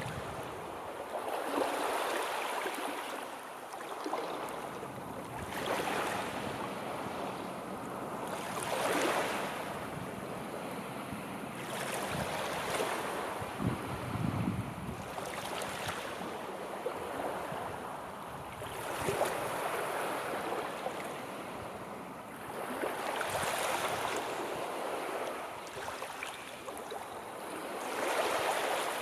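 Sea waves breaking and washing in, one surge of surf every three to four seconds, with a steady hiss of water between them.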